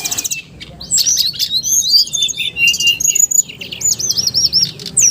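A songbird singing loudly in a fast, varied stream of sharp chirps, falling whistles and short trills.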